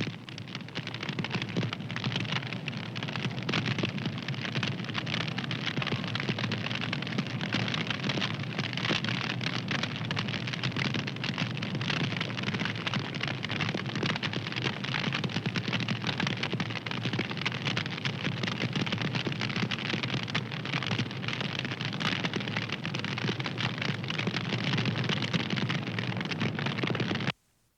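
Fire crackling: a dense, continuous stream of small snaps and pops over a low hiss. The sound drops out for a split second near the end.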